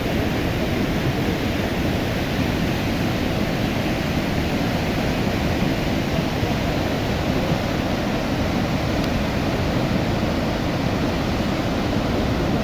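Swollen floodwater rushing in a steady, unbroken torrent.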